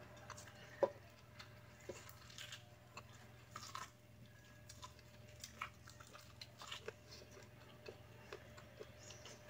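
Faint chewing and biting of boiled corn on the cob: scattered small clicks and crunches at irregular spacing, the sharpest about a second in.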